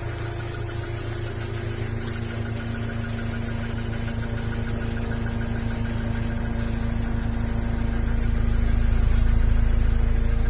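Abarth Grande Punto's 1.4 turbo four-cylinder idling steadily through a muffler-delete exhaust, growing gradually louder toward the end.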